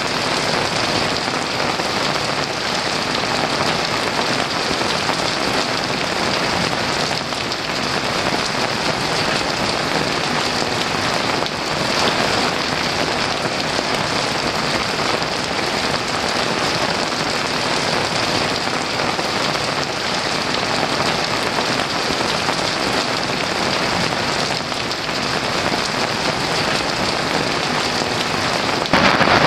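Heavy rain pouring steadily, an even dense hiss. A roll of thunder begins right at the end.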